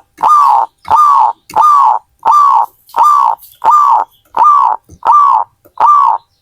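Zebra dove (perkutut) cooing: a steady run of about nine loud, evenly spaced coos, each with a slight fall in pitch, that stops near the end.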